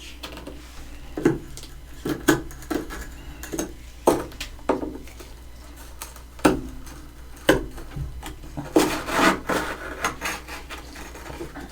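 Humidifier-made freezer frost crunching and scraping in about a dozen sharp, irregular crunches, with a denser run of them about nine seconds in.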